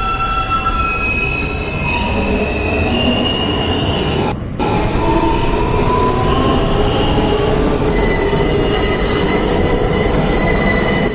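New York City Subway L train car running between stations, a loud steady rumble overlaid with high whining and squealing tones that slide in pitch, then settle into steady high tones in the last few seconds. The sound drops out briefly about four and a half seconds in.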